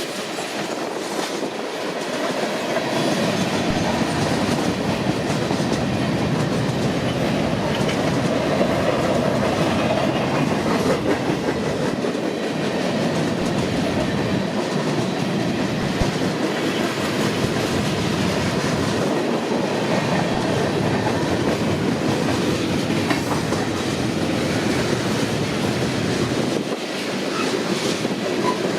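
A Union Pacific mixed freight train rolling steadily past at close range, its wheels clacking and rumbling over the rails.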